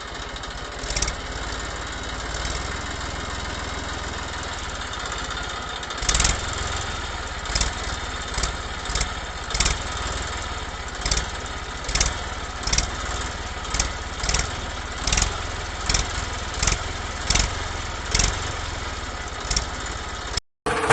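Small motor of a homemade mini tractor running steadily. From about six seconds in, a sharp knock repeats roughly every half second to a second.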